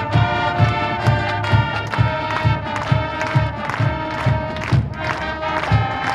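High school marching band playing: brass holding chords over a steady beat of low drum hits.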